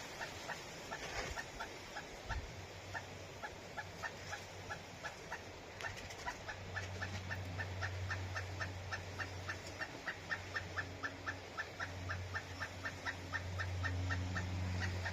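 Pileated woodpecker calling: a long unbroken series of short, evenly spaced notes, about four a second. A low steady hum sits underneath from about halfway through.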